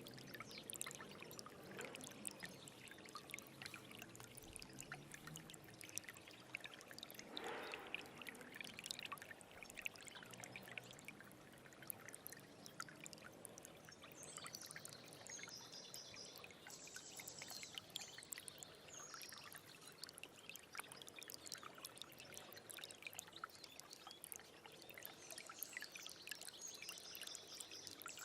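A small stream trickling and gurgling: a steady, soft wash of running water full of tiny splashes and drips.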